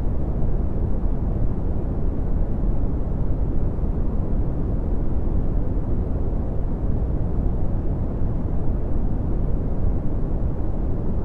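Steady red (Brownian) noise: a deep, even rumbling hiss, strongest in the bass and fading off toward the treble, unchanging throughout.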